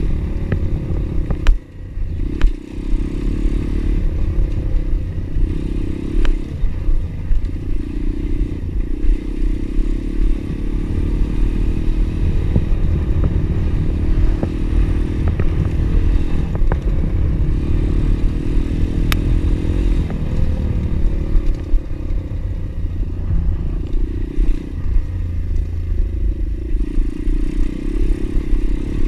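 Pit bike engine running under way on a rough track, with occasional knocks and rattles.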